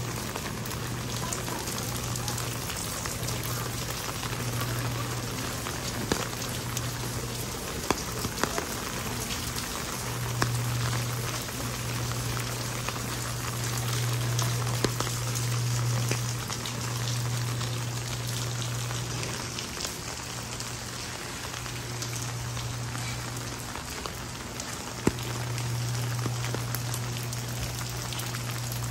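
Heavy rain falling steadily, with many sharp drop ticks, as on an umbrella overhead. A low hum fades in and out several times underneath.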